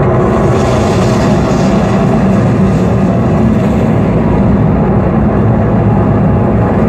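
Simulated static firing of the five Saturn V F-1 rocket engines, played through an exhibit's sound system: a loud, steady, low-heavy rocket roar that does not let up.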